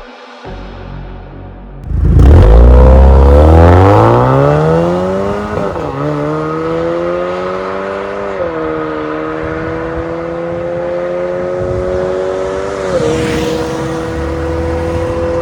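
Lexus 8AR-FTS 2.0-litre turbocharged four-cylinder running through an MS-R dual-valve catback exhaust. About two seconds in the car pulls away loudly and the engine note climbs, then dips briefly three times as the gearbox shifts up, settling into a steadier, slowly rising drone.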